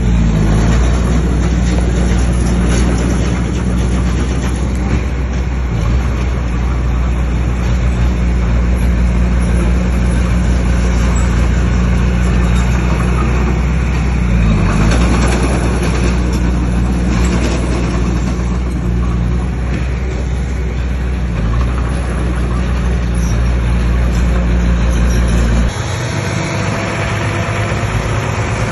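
Bulldozer's diesel engine running hard, a steady deep engine tone under a broad clatter. Near the end the sound changes abruptly and the deepest part of the engine tone drops away.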